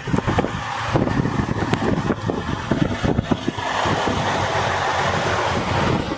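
Wind buffeting the microphone over a vehicle's rumble, with a steadier hiss setting in a little past halfway.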